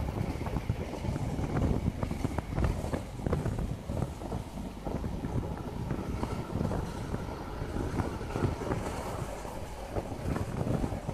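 Local passenger train running at speed, heard from an open coach window: a steady rumble of wheels on the track with irregular knocks, and wind buffeting the microphone.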